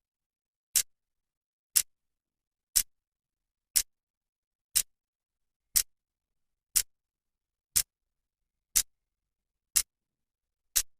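Clock second hand ticking steadily, one sharp click each second with silence between.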